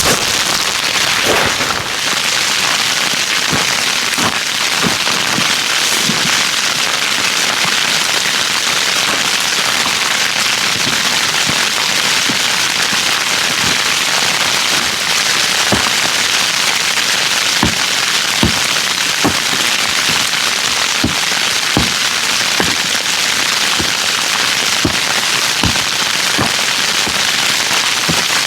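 Wood campfire crackling: a steady hiss with irregular sharp pops from the burning wood.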